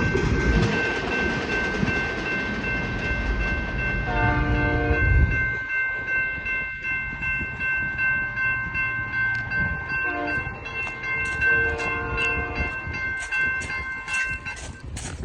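Union Pacific local freight train rumbling past, its rumble dropping away after about five seconds as it moves off. The locomotive horn sounds for about a second roughly four seconds in, then again briefly twice later. Steady high ringing tones continue until just before the end.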